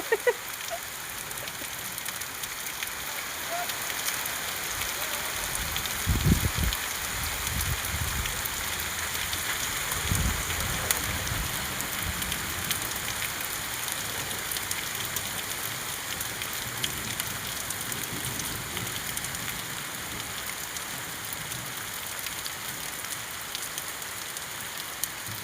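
Steady rain falling, with a dense run of small drop ticks and a steady hiss. Two low rumbles break in, about six seconds in and again about ten seconds in.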